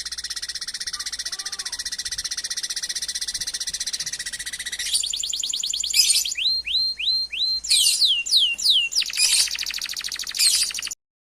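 Songbird song: a long, fast, buzzy trill, then a string of clear whistled notes that slide down in pitch, broken up by more rapid trills. It cuts off suddenly near the end.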